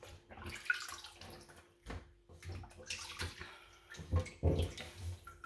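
Water splashing and sloshing unevenly, with scattered small knocks, as raw chicken pieces are washed by hand in water.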